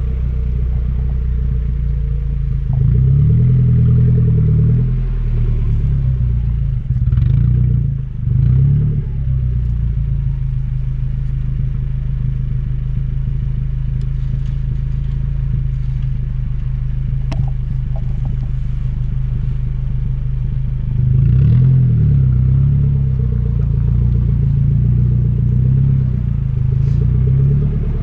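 Vehicle engine running steadily while driving, a low hum that rises and eases a few times as the engine speeds up.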